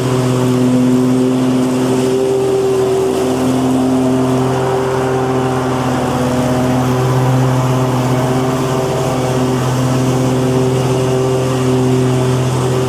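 Petrol lawn mower engine running steadily at a constant speed: a loud, even drone with a low hum and higher overtones that barely changes.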